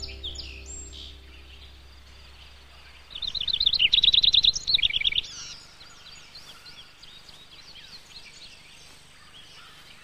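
A songbird sings a loud, rapid run of short falling chirps, starting about three seconds in and lasting about two seconds. Faint scattered bird chirps continue over a soft steady outdoor hiss.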